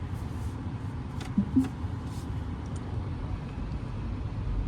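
Steady low rumble inside the cabin of a Tesla Model Y electric car creeping forward at low speed, with no engine note and a few faint clicks.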